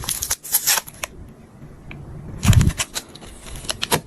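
Clear adhesive tape being pulled and peeled off a plastic makeup compact, crackling in short bursts, with a quick run of small clicks near the end.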